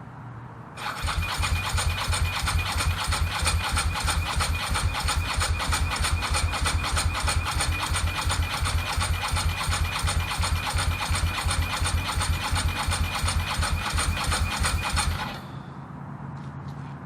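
Ducati 916's 90-degree V-twin turned over by its electric starter for about fourteen seconds, a fast even chugging over a high starter whine, stopping abruptly near the end. The engine cranks but never fires: it fails to start, and the owner suspects the fuel pump lines are connected the wrong way round.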